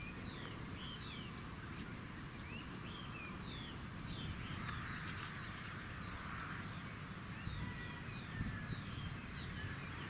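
Several birds chirping: a steady run of short, quick sliding notes, over a low steady rumble.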